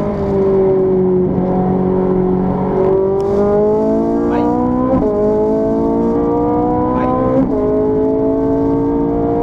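Ferrari 458 Italia's naturally aspirated 4.5-litre V8, heard from inside the cabin under hard acceleration: the engine note holds steady for a moment, then climbs in pitch, dropping sharply at two quick upshifts, about halfway and again a couple of seconds later, and climbing again after each.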